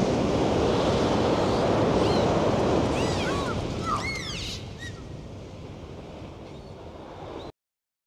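Steady rushing outdoor noise with several short, arching high-pitched animal calls about two to four seconds in; the noise then fades and cuts off abruptly near the end.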